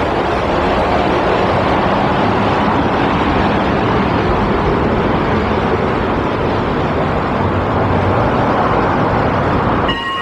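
A train running by with a steady, loud rushing noise that swells over the first second and cuts off suddenly just before the end.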